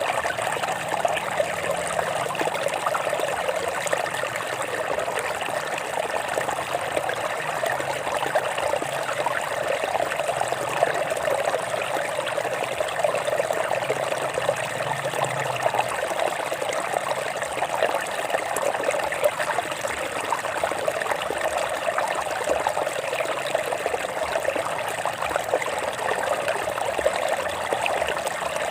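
Water flowing and trickling over rocks in a stream, a steady babbling.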